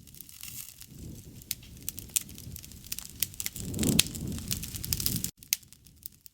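Wood fire crackling and popping over a low rushing sound that swells about four seconds in. The rushing then cuts off suddenly, leaving only scattered crackles.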